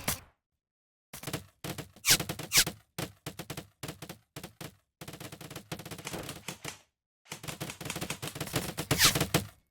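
Airsoft gun firing rapid full-auto bursts: long strings of sharp cracks, stopping twice for short pauses, once near the start and once about three-quarters of the way in.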